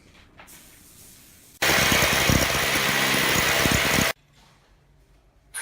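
A power tool's motor running in one loud burst of about two and a half seconds, starting abruptly about a second and a half in and cutting off just as suddenly.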